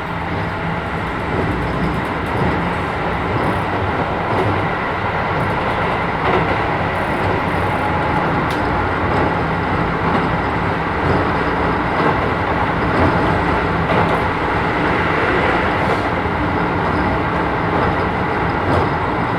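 Keisei 3000 series electric train, with Toyo IGBT inverter drive, running between stations, heard from inside the passenger car. Wheels on the rails and the running gear make a steady rumble, with a few light clicks.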